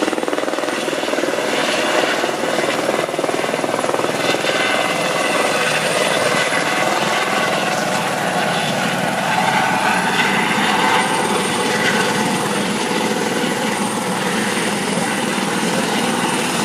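Helicopter with an enclosed, shrouded tail rotor coming down slowly to land, its rotor and engine running loud and steady, with one tone stepping up in pitch about ten seconds in.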